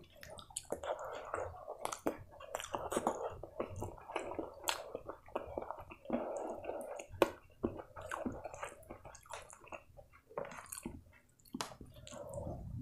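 Wet chewing and lip-smacking with many sharp mouth clicks from a mouthful of rice and chicken curry, along with squishing as fingers mix rice and curry on the plate.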